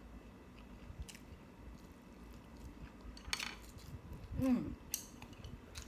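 Eating utensils clinking and scraping against a plate now and then, in a few short clicks, with a brief hum from the eater about four and a half seconds in.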